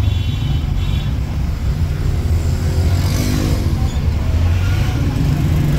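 Car driving in town traffic, heard from inside the cabin: a steady low engine and road rumble, with a brief rising engine note about three seconds in.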